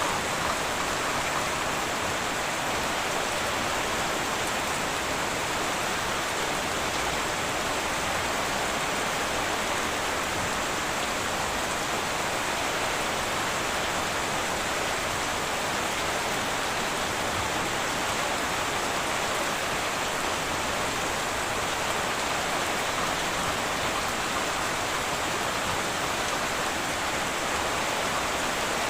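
Steady heavy rain drumming on a tin roof, an even hiss with no thunder in this stretch.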